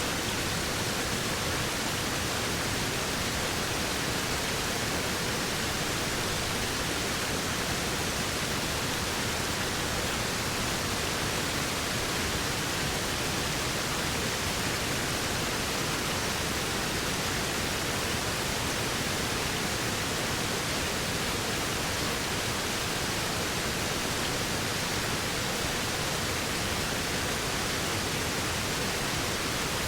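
Waterfall: a steady, even rush of falling water with no distinct splashes or changes.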